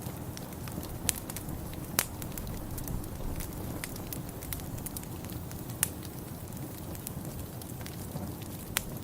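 Wood fire in a fireplace crackling over a steady low rumble, with a few louder sharp pops scattered through it.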